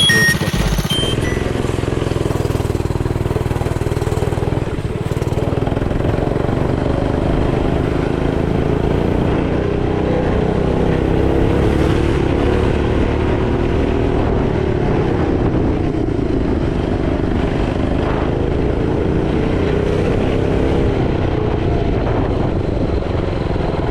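Mini bike's small engine running under way, its pitch wavering up and down with the throttle.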